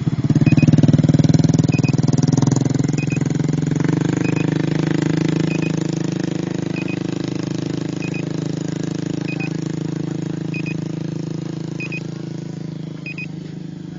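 An engine running close by, loudest about a second in and then slowly fading. A faint double beep repeats about every second and a quarter.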